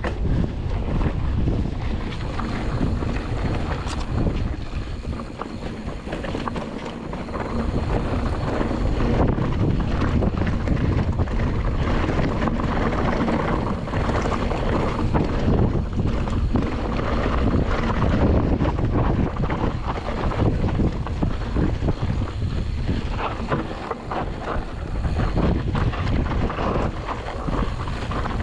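Mountain bike descending a rough dirt trail at race speed: wind buffeting the GoPro microphone over tyre noise on dirt and rock, with many short knocks and rattles from the bike.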